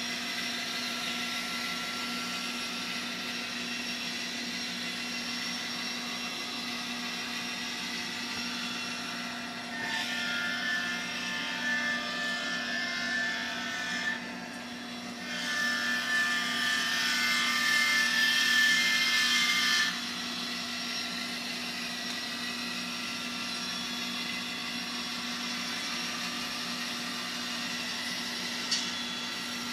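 EMD GP60 diesel prime mover sound from an N scale model's LokSound micro DCC sound decoder, heard through the model's tiny speaker as a steady hum. The sound grows louder and busier for about ten seconds in the middle, dipping briefly partway through, then drops back to the steady level.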